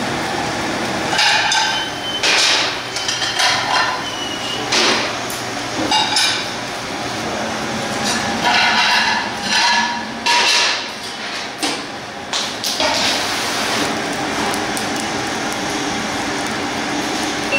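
Irregular metallic knocks and clinks with a short ringing after some, like metal kitchen tools or trays being handled, over a steady background noise; the knocks stop about 13 seconds in.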